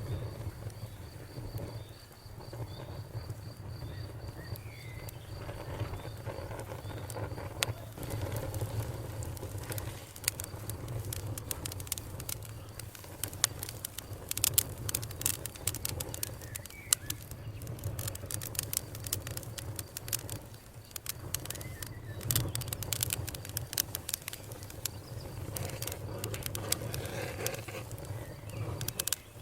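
Campfire crackling, with frequent sharp pops and snaps, densest in the middle stretch, over a steady low rumble of burning.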